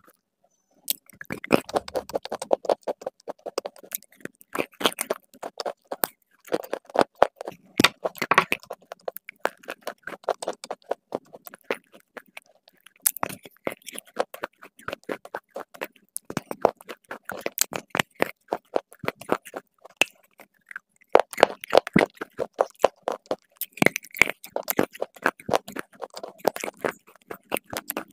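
Close-miked crunching as a person bites and chews a hard reddish-brown clay piece: dense runs of sharp crunches with a few short breaks between bites.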